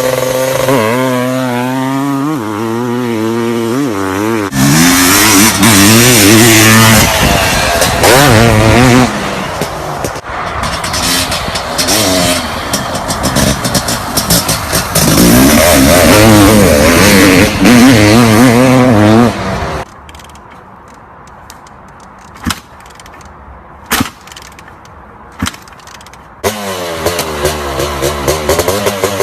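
Honda CR500's single-cylinder two-stroke engine being revved, its pitch climbing and falling with each blip, with long stretches of very loud high revs. About two-thirds of the way through the sound drops away to a low level with a few sharp cracks, then the engine revs again near the end.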